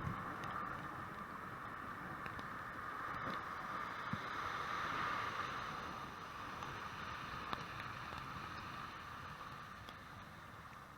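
Steady slushy hiss of tyres rolling over a wet, snow-covered street, swelling a little about halfway through, with a few faint clicks.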